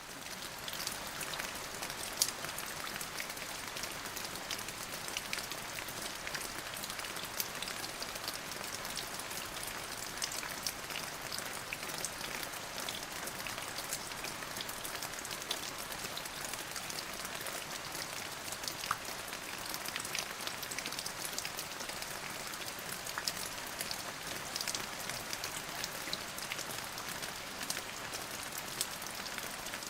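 Steady rain falling on a surface, a constant hiss with many individual drops ticking sharply throughout.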